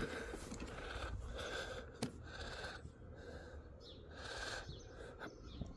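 Breathing close to the microphone, a run of short noisy breaths about every half second to a second, with a faint click about two seconds in and another near the end.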